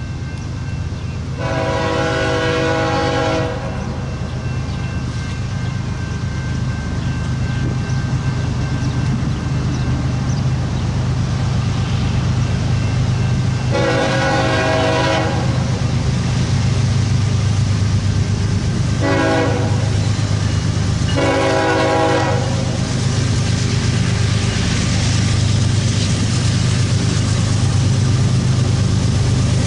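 Diesel locomotive horn sounding a chord in the grade-crossing pattern, long, long, short, long, with another blast starting at the end. Beneath it the approaching train's engines drone steadily and grow louder.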